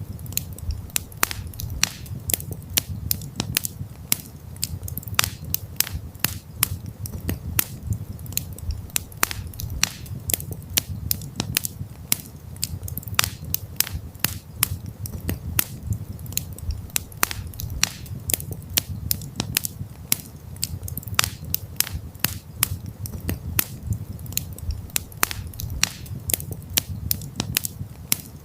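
Wood campfire crackling, with many irregular sharp pops and snaps several times a second over a steady low rumble of the flames.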